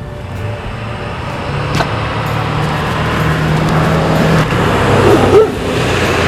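A motor vehicle going by, its engine hum and road noise building steadily louder, with a brief louder sound about five seconds in.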